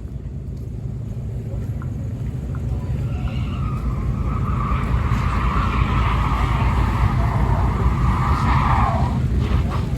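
Truck doing a burnout: the engine rumble grows steadily louder while the tyres squeal from about two seconds in, the squeal dropping in pitch and stopping about nine seconds in.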